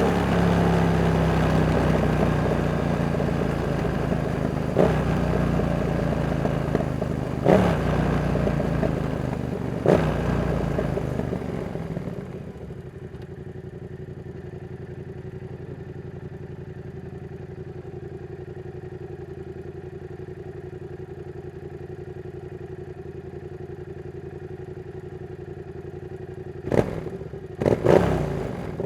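Yamaha MT-07's CP2 parallel-twin engine running down off the throttle with three sharp clicks along the way, then settling to a steady idle about twelve seconds in. A few sharp clunks come near the end.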